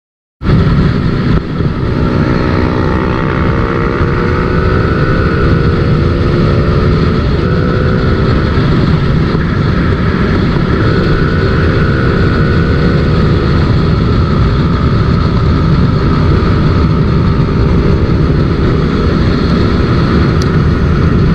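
Motorcycle engine running under load on the move, starting just after a brief silence: its note climbs, drops at a gear change about seven seconds in, climbs again and then holds steady, over a dense low rumble of wind and road.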